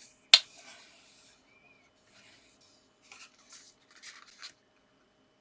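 Card stock being folded and burnished down along the crease: a sharp tap about a third of a second in, a second of soft rubbing, then several short scraping strokes of paper being pressed flat.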